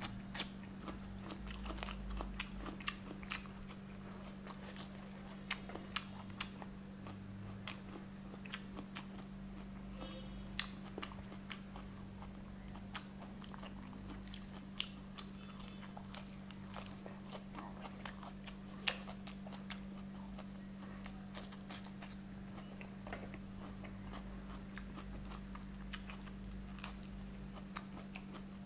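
Close-up chewing and biting of crispy fried chicken legs, with irregular crunches and small sharp clicks. A steady low hum runs underneath.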